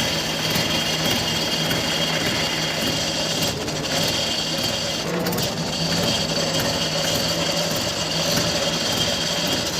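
Tractor diesel engine running with a steady mechanical noise and constant high tones over it, the sound of a seized crank bearing.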